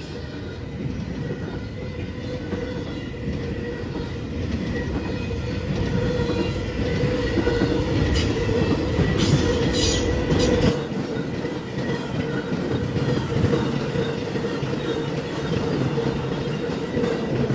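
A train rolling by on the rails: a steady rumble of wheels and cars that grows louder over the first several seconds, with a thin steady whine and a few brief high squeals a little past the middle. The deepest part of the rumble drops away suddenly soon after.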